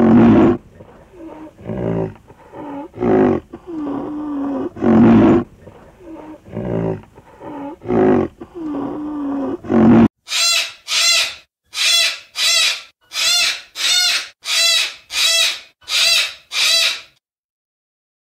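A rhinoceros giving a run of low, pitched calls and grunts. About ten seconds in, a Moluccan cockatoo takes over with about eleven harsh, high screeches in quick, even succession, which stop near the end.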